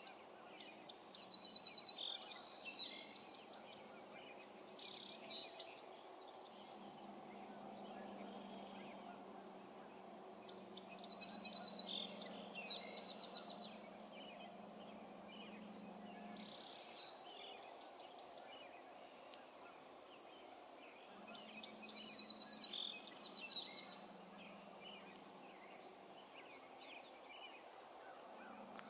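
A songbird sings the same short song three times, about ten seconds apart, each opening with a rapid run of high notes; softer bird calls come in between. A faint low hum comes and goes underneath.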